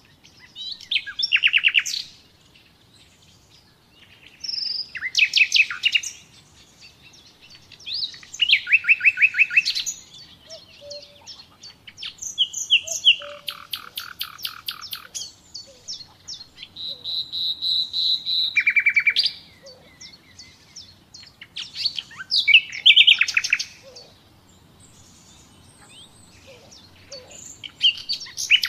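Common nightingale singing: a string of varied phrases, each a fast run of repeated notes, coming every three to four seconds with short pauses between.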